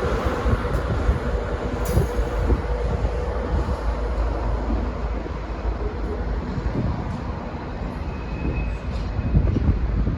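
Departing locomotive-hauled passenger train rolling along the track: a steady rumble of wheels on rail with irregular knocks, and a brief wheel squeal near the end.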